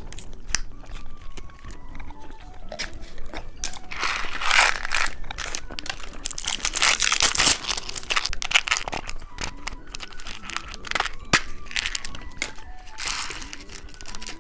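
Plastic snack wrapper being handled, crinkling and crackling in irregular bursts with sharp little clicks, loudest around four and seven seconds in.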